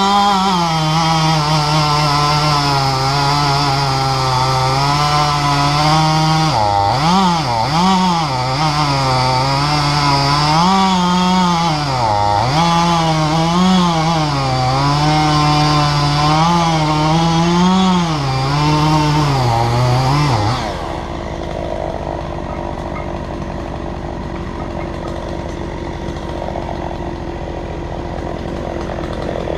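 Chainsaw running hard while cutting wood, its engine pitch rising and falling repeatedly through the cuts. About twenty seconds in, it drops to a quieter, steady running sound.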